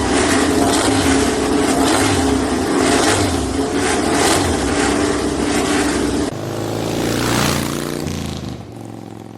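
Loud vehicle noise. About six seconds in it changes abruptly to an engine sound whose pitch falls, fading away near the end.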